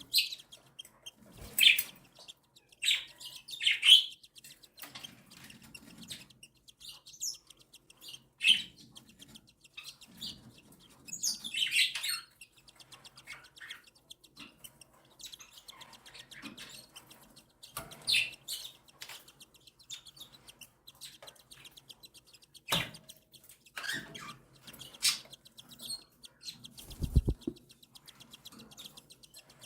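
Cockatiel chicks giving short, high begging chirps, scattered every second or two, as they are fed. A sharp click and, later, a low dull thump come in the last third.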